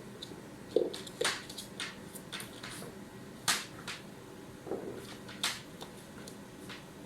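Havanese puppy playing with a carrot: about ten irregular sharp clicks and taps, a couple of them with a dull knock, as the carrot and the puppy's teeth and claws hit each other and the floor.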